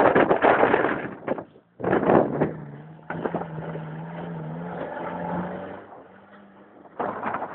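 A car engine running as it is driven around, a steady drone a couple of seconds in that fades near the end, after a loud rushing noise in the first second or so.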